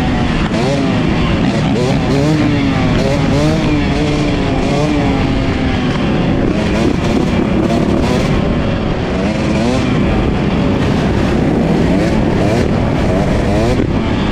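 Several motorcycle engines, most likely dirt bikes, revving up and down at once, their pitches rising and falling over one another.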